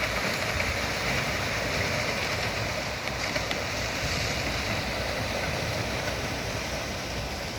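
A concrete pump truck running steadily as it pumps concrete, a constant mechanical noise.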